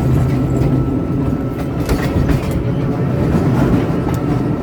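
Tren de Sóller electric train running on the rails: a steady rumble with scattered clicks and clacks from the wheels on the track.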